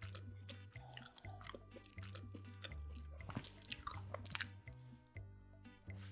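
A person chewing a soft white-bread sandwich, with sharp wet mouth clicks here and there, loudest a little past the middle. Background music with a low bass line runs underneath.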